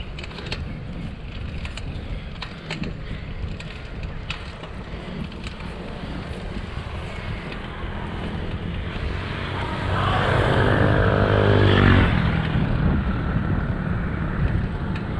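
Wind rumbling on the microphone of a moving bicycle, with a motor vehicle approaching and passing: its engine swells from about nine seconds in, is loudest near twelve seconds, then fades.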